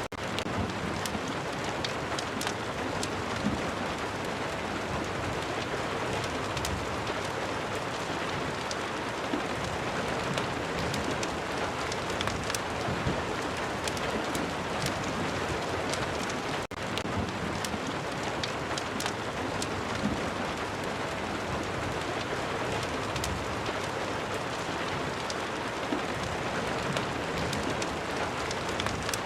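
Steady rain mixed with the scattered sharp crackles of a wood fire, with a momentary dropout about halfway through.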